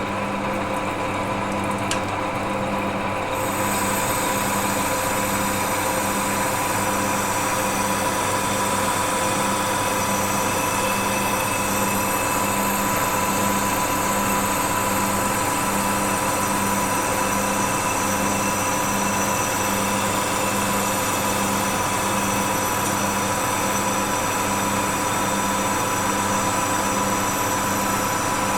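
An electric workshop machine starts and runs steadily with a fixed motor hum and a slow, regular pulsing throb; a few seconds in, a higher hiss joins it.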